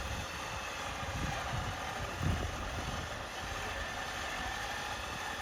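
Mitsubishi L200 pickup engine running steadily, with a couple of brief low thumps about a second and two seconds in.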